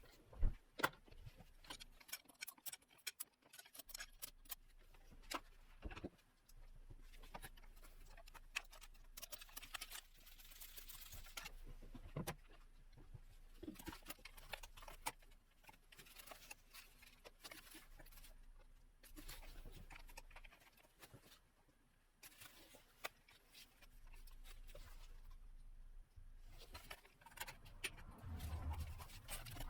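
Scattered light clicks and taps of hand tools and small parts being handled while a glow plug plate is fitted in a car's engine bay, with a louder low rumble near the end.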